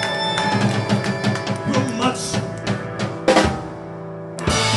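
A live rock band plays, with the drum kit beating out hits and fills over held chords. A loud crash comes about three seconds in, the music drops back for about a second, and then a loud held chord comes in near the end.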